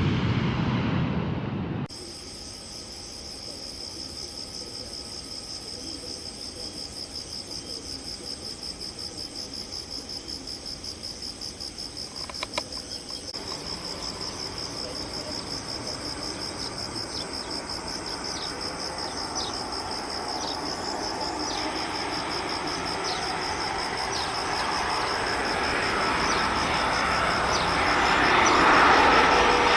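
Insects trilling steadily in a high, finely pulsing chorus. Underneath it, the engines of an approaching Airbus A330-300 airliner grow steadily louder through the second half, loudest near the end. A loud sound cuts off abruptly about two seconds in.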